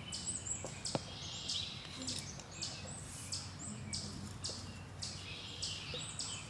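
Small songbirds chirping in short, quick, high calls, about two or three a second, over a faint low background rumble, with one brief click about a second in.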